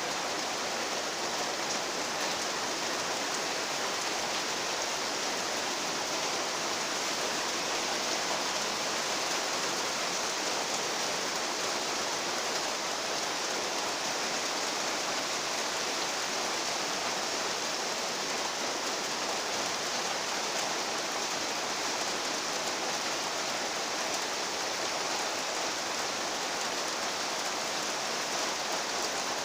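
Steady rain falling, an even hiss of drops on surfaces that holds at the same level throughout.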